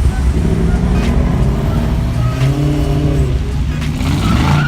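A car engine running and being revved, its pitch shifting and then rising sharply near the end.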